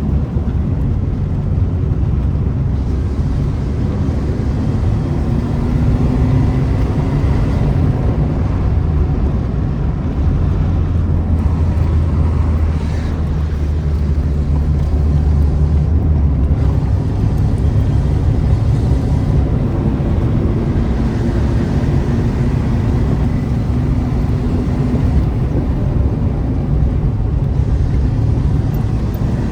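Renault car's loud exhaust with the engine running, a steady deep rumble whose pitch rises and falls now and then.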